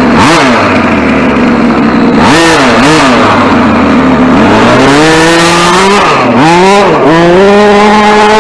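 RC short course truck's motor revving under throttle, its whine swinging up and down in quick blips, then climbing to a high steady pitch in the second half with one brief dip.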